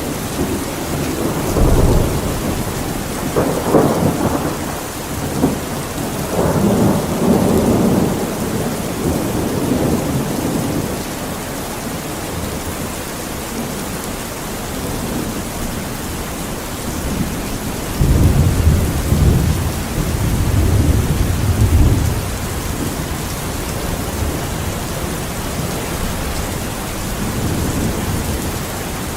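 Steady rain falling, with low rolls of thunder rumbling through the first quarter and again a little past the middle.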